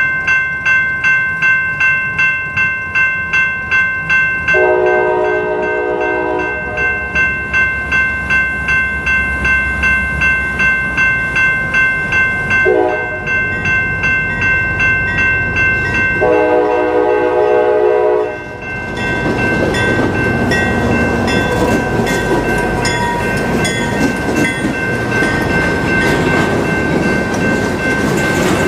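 Freight train led by a CSX SD40-2 diesel locomotive approaching and passing: a bell rings steadily about twice a second while the locomotive horn gives a long blast, a short one and another long blast, the warning for a grade crossing. The locomotive then passes close by about two-thirds of the way in, and loud rolling wheel and rail noise follows.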